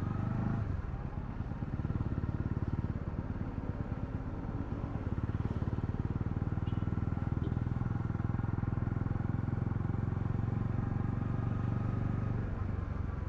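Honda CL250's single-cylinder engine running under way, a steady pulsing exhaust note that dips briefly about a second in and eases off near the end.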